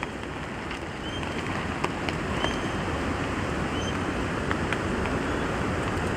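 Wind blowing steadily, a little louder after about a second, with a few faint ticks scattered through it.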